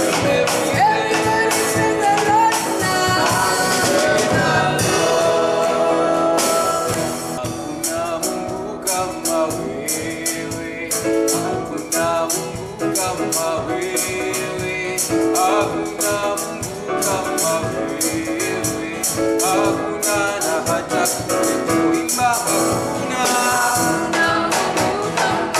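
Live gospel worship music: singing voices over a full band, with a steady beat of sharp drum strikes.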